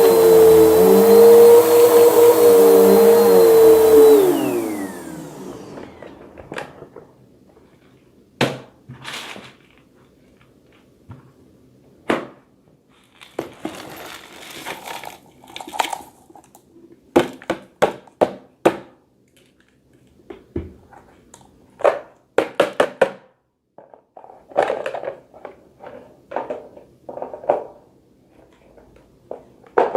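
Bissell vacuum cleaner running with a steady hum, switched off about four seconds in and winding down with a falling pitch. After that come scattered clicks, knocks and short rattles of the machine being handled.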